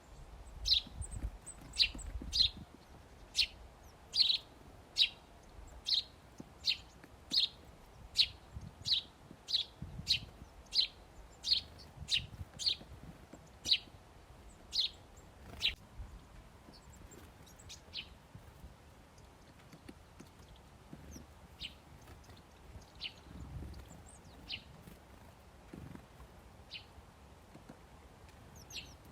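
Small bird repeating a short, high, downward-sweeping chirp, about one or two a second, the calls thinning out after about sixteen seconds.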